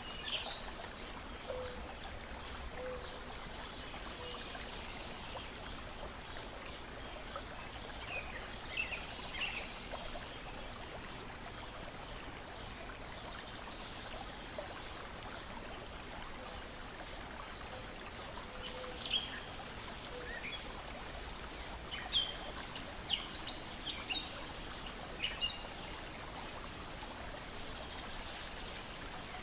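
Small waves lapping and water trickling in a steady wash, with songbirds chirping in short calls on and off, more often in the second half.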